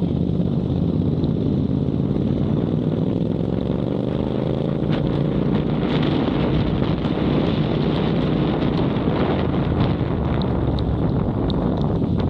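Motorcycle engine running under way, with wind noise on the microphone; the engine note rises a few seconds in as the bike speeds up.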